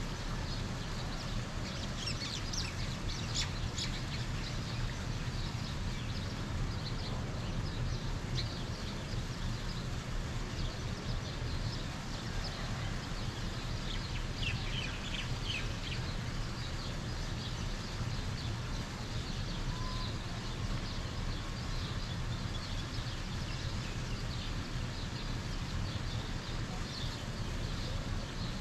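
Birds chirping in short high bursts, thickest about two seconds in and again about halfway through, over a steady low background rumble.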